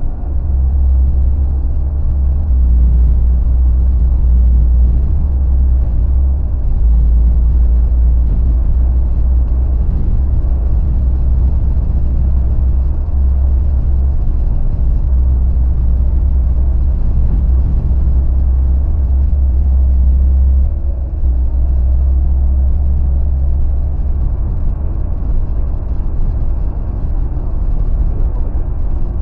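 Car driving on the road, a steady low rumble that dips briefly about twenty seconds in.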